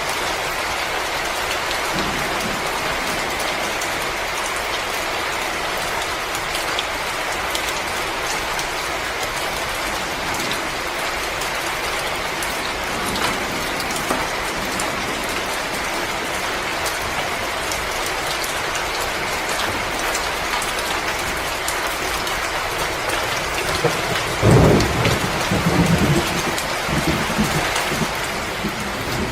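Wood fire crackling in a fireplace: a steady hiss with many small sharp pops and snaps throughout. About 25 seconds in comes a louder low rumble lasting a couple of seconds.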